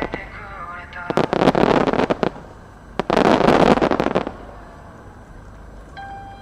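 Aerial fireworks crackling: two dense volleys of many small sharp pops, each lasting about a second, the second one the loudest. The crackling dies away about two-thirds of the way through.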